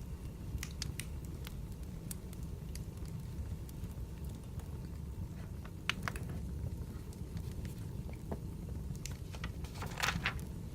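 Wood fire burning with a steady low rumble, crackling and popping at irregular moments, with a louder flurry of crackles near the end.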